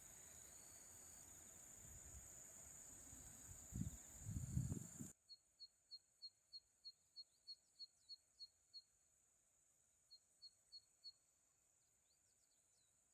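Zitting cisticola song: a run of sharp, high 'zit' notes at about three a second, then after a short pause four more. Before them comes a steady high hiss with a few low rumbles, the loudest sound here, which cut off suddenly about five seconds in.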